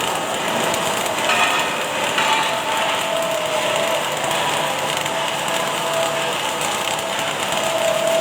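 Automatic arc welding machine running: a steady, dense crackle and hiss from the welding arc, with faint tones coming and going.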